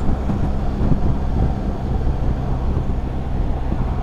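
BMW R1300GS's boxer-twin engine running at a steady cruise, a low even hum without revving, under a rush of wind and road noise.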